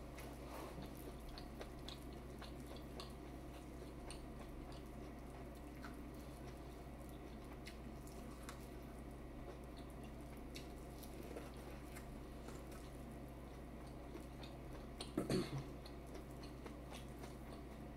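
Person eating a seafood boil: faint chewing with many small wet clicks and smacks, and a brief louder noise about fifteen seconds in.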